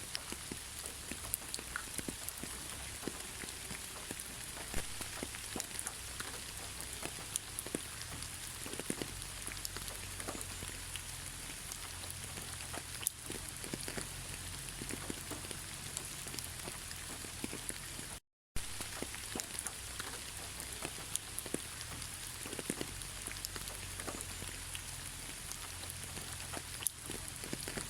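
Steady rain falling, an even hiss with many individual drops ticking and pattering. The sound cuts out completely for a split second about two-thirds of the way through, then resumes.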